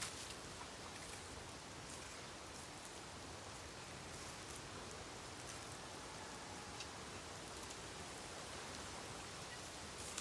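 Bamboo burning on an open fire: a faint steady hiss with a few scattered faint crackles.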